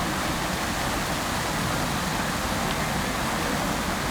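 Fountain water falling and splashing into its basin: a steady, even rush of water with no breaks.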